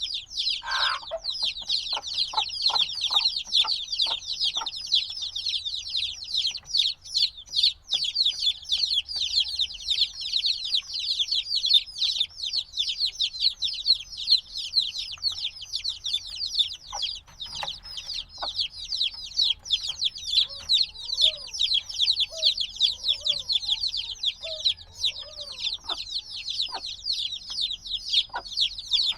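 A brood of chicks a few days old peeping without pause, many short, high-pitched, falling peeps overlapping. A run of light ticks sounds in the first few seconds, and a few softer, lower calls come through in the second half.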